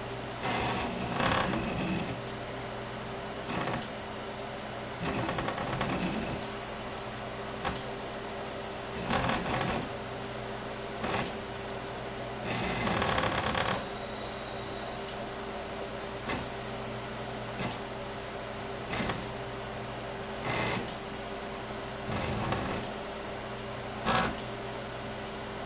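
Homemade CNC router's stepper motors driving the axes in a series of short moves, each a buzzing whine that glides up and down in pitch. Under them runs a steady hum from the energised motors, with sharp ticks in between.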